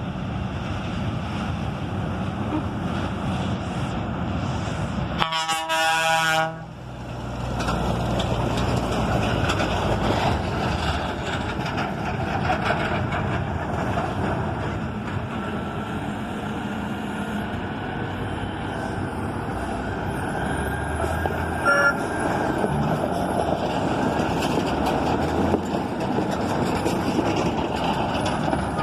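Scania G420 trucks' straight-six diesel engines running as they haul vinasse tankers, with one loud air-horn blast lasting about a second, some five seconds in.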